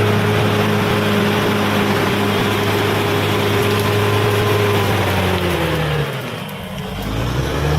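Bulldozer's diesel engine running at a steady note, which slides down in pitch and quietens about six seconds in, then picks back up near the end.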